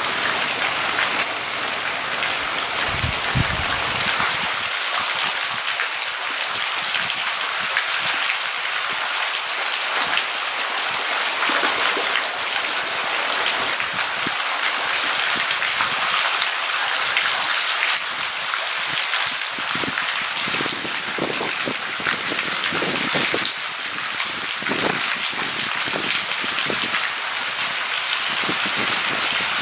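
Heavy rain falling steadily during a thunderstorm, with individual drops striking a nearby surface more audibly in the second half. A brief low thump comes about three seconds in.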